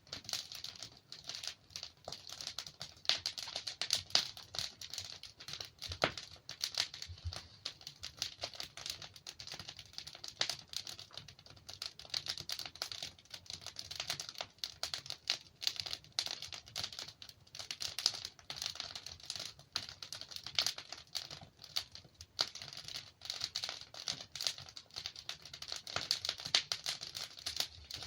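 Logs burning in a fireplace, crackling steadily: a dense, irregular run of small crackles with sharper pops scattered throughout.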